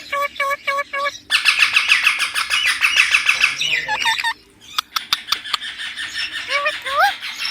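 Baby Indian ringneck parrot calling: a run of short, even notes, about five a second, then fast harsh chattering, with a couple of quick rising squeaks near the end.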